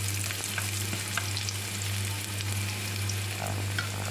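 Sliced garlic and ginger sizzling in a little oil in a nonstick wok as wooden chopsticks stir them, a steady hiss with scattered small pops. The aromatics are being sautéed until fragrant.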